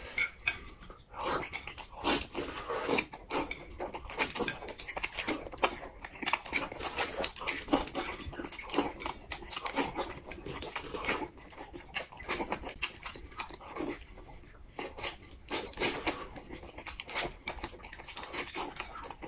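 Two people eating close to the microphone: irregular wet chewing, smacking and slurping of boiled dumplings and spooned bird's nest.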